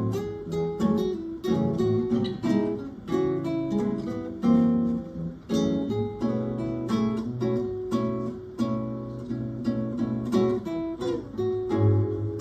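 Acoustic guitars playing live, a mix of strummed chords and quick picked notes in a steady flowing rhythm.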